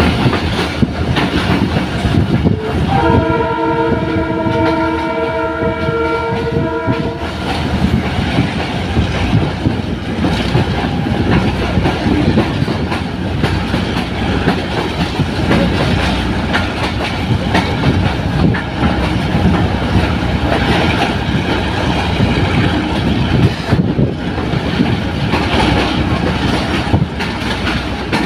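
A train running on the rails with a steady loud rumble and wheel clatter. About three seconds in, the locomotive's horn sounds one held blast of about four seconds.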